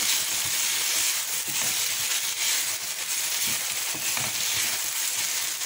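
Sliced onions and bell peppers sizzling in a small non-stick frying pan with a steady hiss, stirred now and then with a spatula.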